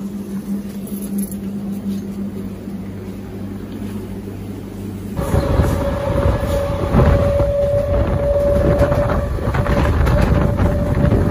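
Electric MEMU passenger train heard from on board: a steady low hum for about five seconds, then a sudden louder running noise from the train with a steady whine over it.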